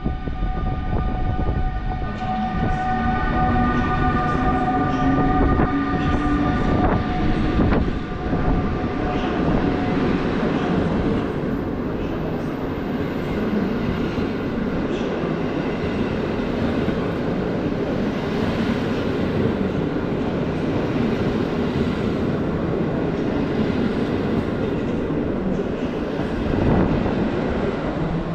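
PKP Intercity passenger train moving through the station. In the first several seconds there is a steady hum and a slowly rising whine over the rumble; then the rumble of the passing cars carries on, with frequent clicks of wheels over rail joints.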